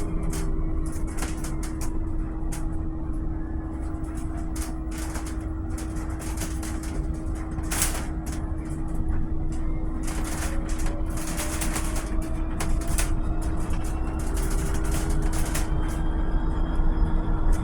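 Volvo BZL two-motor electric bus running, with a low road rumble, a steady hum, and a faint electric motor whine that rises and falls in pitch. Frequent short rattles and clicks run through it.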